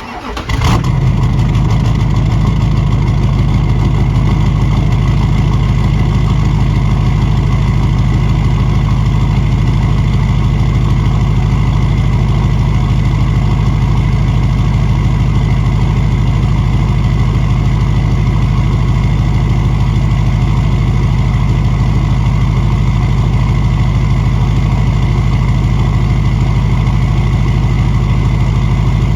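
2006 LBZ Duramax 6.6-litre V8 turbodiesel starting cold, catching within the first second and settling into a steady high idle through a 5-inch straight-pipe exhaust with no muffler.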